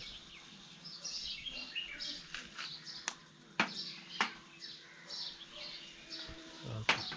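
Small birds chirping over and over, with a few sharp clicks or taps, the loudest a little after three seconds and just before the end.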